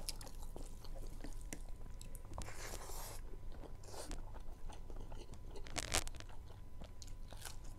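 Close-miked mouth eating sounds: chewing with small wet clicks and smacks, and a crunchy bite about six seconds in.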